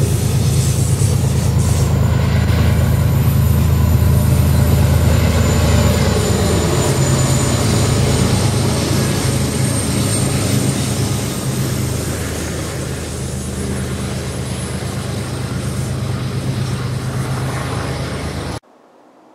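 Freight train passing close with mid-train diesel locomotives, Canadian Pacific and BNSF units, working upgrade on the Tehachapi grade: a loud, deep steady engine drone over wheel-on-rail noise. The drone eases after about eleven seconds as trailers on flatcars roll by, and the sound cuts off suddenly near the end.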